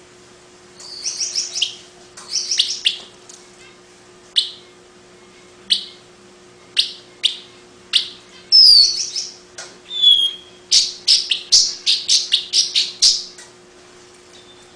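Long-tailed paradise whydah singing: bursts of rapid, sharp chattering chirps and single high notes, with a couple of short falling whistles partway through.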